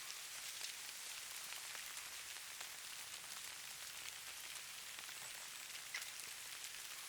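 Steady fine patter of falling precipitation: a soft high hiss made of countless tiny ticks on surfaces, with a few sharper individual ticks.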